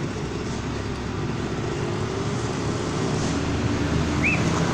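Motorcycle engine running steadily under way, with a short high chirp near the end.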